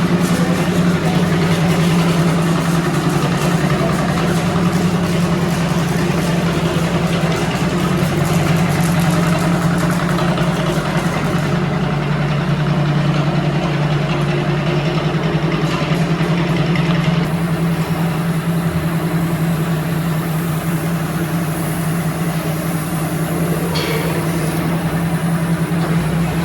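Air compressor running steadily with a constant hum for spray painting, with a high hiss over it that drops out for a few seconds around the middle.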